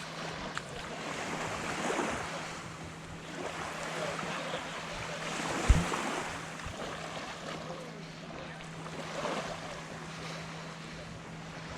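Small waves breaking and washing up on a sandy beach, swelling and fading every few seconds, with wind on the microphone and a faint steady low hum underneath. A single sharp thump about six seconds in.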